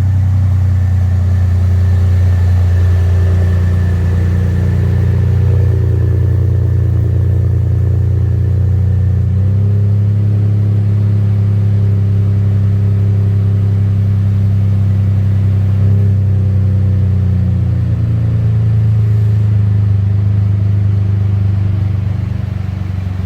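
A 2016 Ford F-150's 2.7 L EcoBoost twin-turbo V6 idles steadily through a Flowmaster FlowFx muffler with the resonator deleted, during a cold start. The exhaust note is low and loud. Its pitch steps slightly about ten seconds in, and again around eighteen seconds, as the idle speed shifts.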